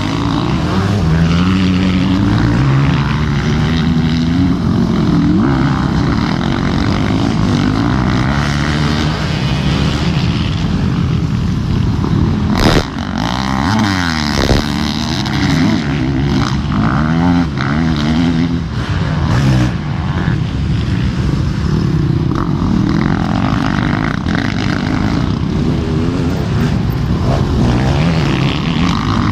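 Several motorcycle engines revving up and down through the gears, their pitches rising, falling and crossing one another. There is one sharp knock about midway.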